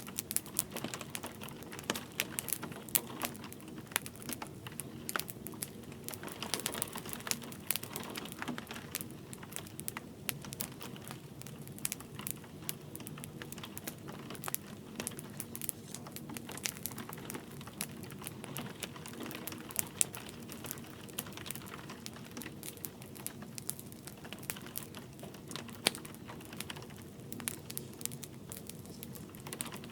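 Wood fire crackling in a fireplace, with frequent irregular sharp pops over a steady soft hiss of light rain.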